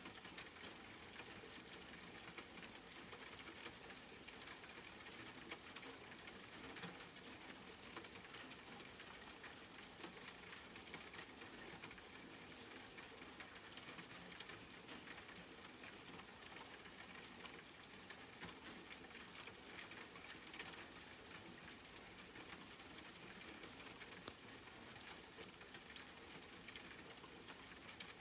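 Faint steady rain falling, a soft even patter with scattered small drop ticks.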